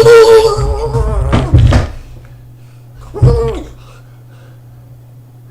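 A person's voice holding a long drawn-out filler sound for about the first second, then trailing off, with a short vocal sound a little past the middle. Afterwards only a faint steady low hum remains.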